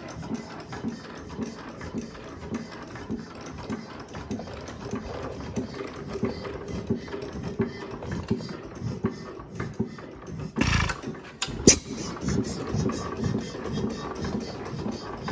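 6 hp Armstrong hit-and-miss engine running, its strokes beating evenly about three times a second. About ten and a half seconds in there is a short loud burst of noise, followed a second later by a single sharp bang, the loudest sound.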